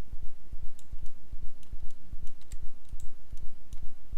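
Computer mouse clicks and keyboard taps, scattered sharp clicks, over a loud, regular low thudding several times a second.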